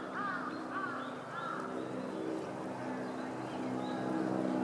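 Birds calling with short repeated arching chirps during the first second and a half, then fainter, higher calls. Underneath is a steady engine hum that grows louder near the end.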